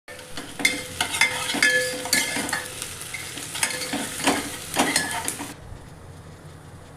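Metal spoon stirring and scraping in a metal pot of frying food, with sharp clanks and a sizzle. The stirring stops about five and a half seconds in, and a quieter steady sizzle is left.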